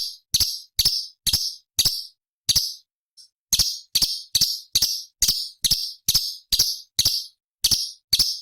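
Orange-bellied leafbird (cucak cungkok) calling a rapid string of short, harsh, sharp notes, about two to three a second, breaking off for a second or so about two seconds in and then resuming.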